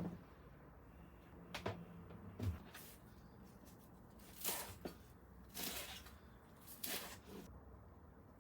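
Kitchen handling sounds: a sharp knock, two lighter knocks about a second and a half and two and a half seconds in, then three short scraping or rustling sounds in the second half.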